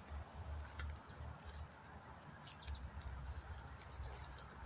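Late-summer insect chorus: one steady, shrill high-pitched tone with no break, over a low rumble.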